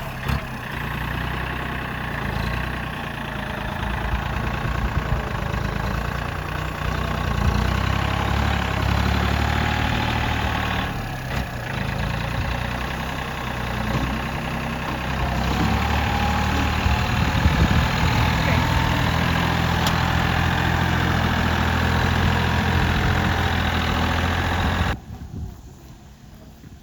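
John Deere tractor engine running steadily while dirt is moved, its level rising and falling a little; the sound cuts off sharply near the end.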